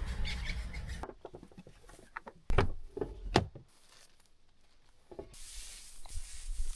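Scattered knocks and clicks with some rustling, as of things being handled, after a steady noise that dies away about a second in.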